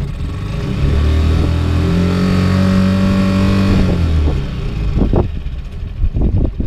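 An engine revving up, holding a steady pitch for about two seconds, then dropping back down; a few sharp knocks follow near the end.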